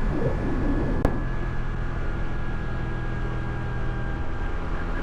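Scooter engine running steadily while riding, with a low road and wind rumble underneath; a single sharp click about a second in.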